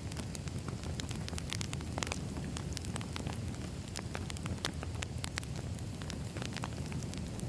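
Campfire crackling: a steady low rumble of burning wood with frequent sharp pops and crackles scattered irregularly throughout.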